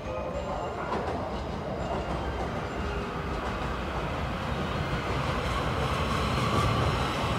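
Electric multiple-unit train approaching along the platform, its running rumble and wheel noise growing steadily louder as it nears.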